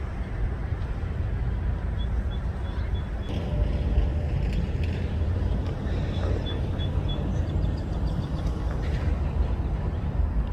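CSX coal train rolling by: a steady low rumble of wheels on rail, with faint clicks and short runs of high ticking a couple of times.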